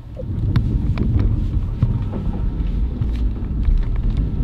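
Steady low rumble of a moving sleeper train heard from inside the carriage, with a few light clicks over it.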